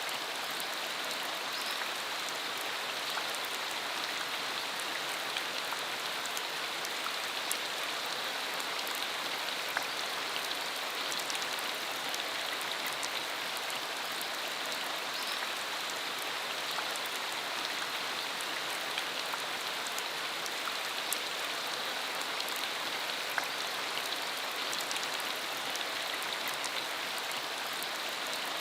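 Steady rain shower falling on a surface, an even hiss with scattered individual drop ticks.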